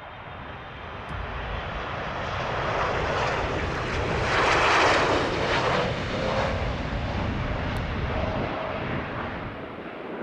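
Boeing 747-8F's four turbofan engines at go-around thrust as the freighter aborts its landing and flies past. The noise builds to a peak about four to five seconds in as it passes closest, then eases off.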